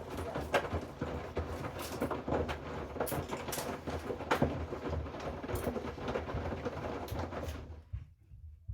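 Hoover washing machine's drum tumbling the wash, with the laundry sloshing and knocking and a low motor hum; the drum stops near the end and the sound drops away.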